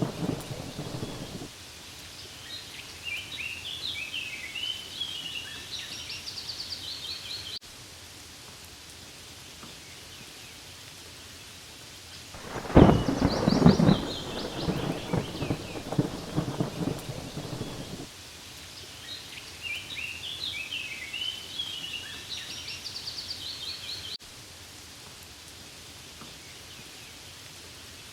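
Steady rain falling on leaves, with a loud thunderclap a little under halfway through that rumbles on for several seconds, and the tail of another rumble fading out at the start. Short runs of high chirping calls come twice over the rain.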